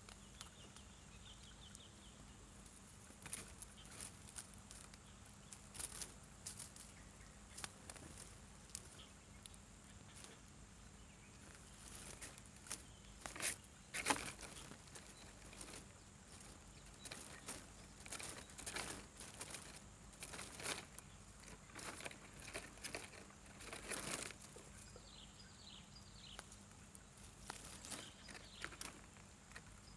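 Scattered rustling and crackling, irregular and louder in the middle, with a few faint high chirps about a second in and again near the end.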